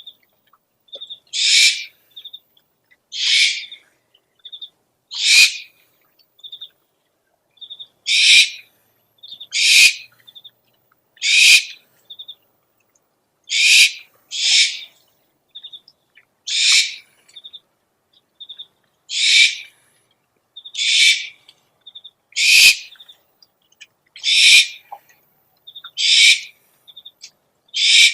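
Owl calls from a lure recording: a raspy, hissing screech repeated about every one and a half to two seconds, each one led by two or three short, high pips.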